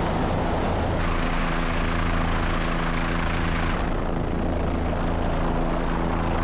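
Helicopter in flight: its turbine engine and rotor give a steady drone with a layer of hiss over it.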